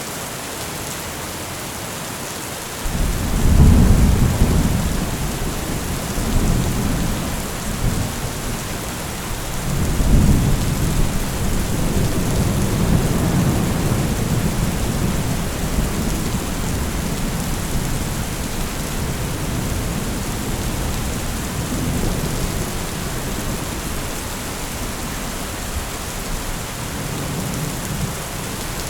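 Steady heavy rain with rolling thunder. A deep rumble of thunder comes in about three seconds in and another about ten seconds in, with lesser rumbles after, over a continuous hiss of rain.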